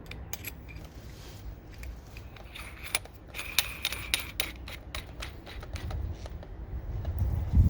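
Clicks, metal rattles and scraping of a masonry bit being fitted into a hammer drill's chuck as the chuck is loosened and tightened, ending with a louder thump near the end.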